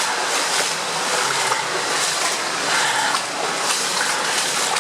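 Steady rush of flowing water in an underground water tunnel, a loud even noise without pauses.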